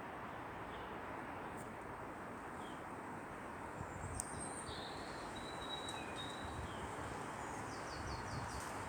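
Outdoor ambience: a steady background rush with faint songbird chirps and calls scattered through it, including a quick five-note trill near the end.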